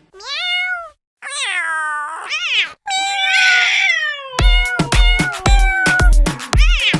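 A cat meowing four times, long drawn-out meows that rise and fall in pitch. About four and a half seconds in, electronic music with a steady thudding beat starts under further meowing.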